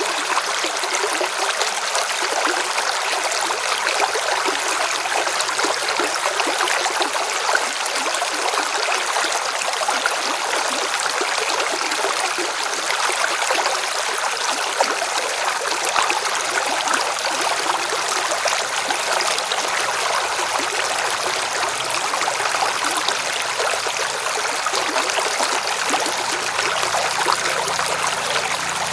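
River water splashing and rushing over rocks, a steady even wash of sound.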